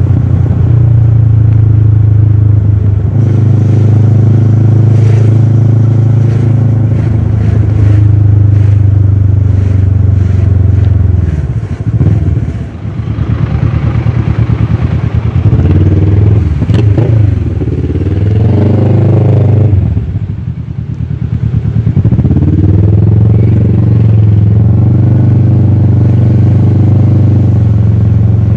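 Kawasaki ER-6f's parallel-twin engine through a full Akrapovic exhaust, running at a steady cruise. About twelve seconds in it drops off as the throttle closes, then rises and falls several times, dips again around twenty seconds, and settles back to steady running.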